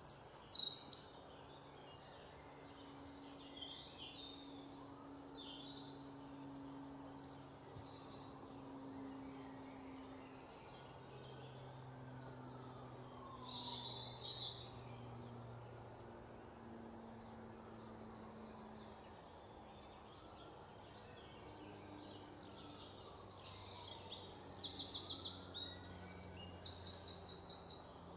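Wild birds chirping and calling, with a loud call right at the start and a fast rattling trill repeated near the end, over a faint low hum.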